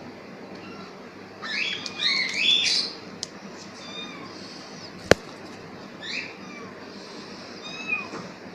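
Kitten meowing: a quick run of short, rising-and-falling meows, then a couple of fainter single meows later. A single sharp click about five seconds in.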